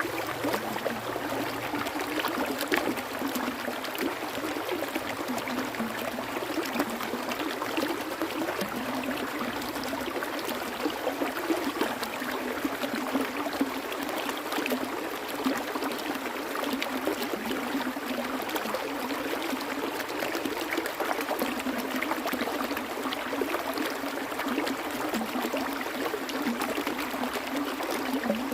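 A stream flowing steadily, water trickling and splashing continuously over rocks.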